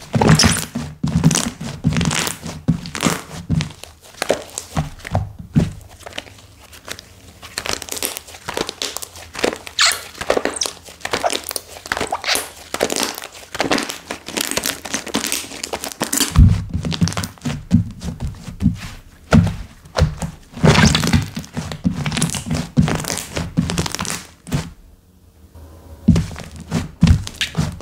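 Slime being squished, pressed and poked by hand, giving a dense run of sticky clicks, pops and crackles, with a brief lull near the end.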